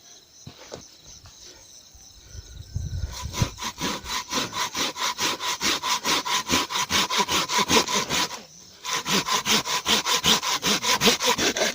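Rhythmic back-and-forth scraping strokes, about four a second, starting about three seconds in, breaking off briefly, then resuming.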